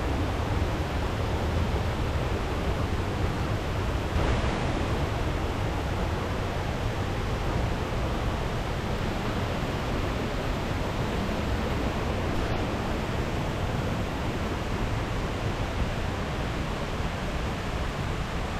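Steady rush of water in a rainforest stream and waterfall, a constant hiss with a deep rumble underneath; it swells briefly about four seconds in.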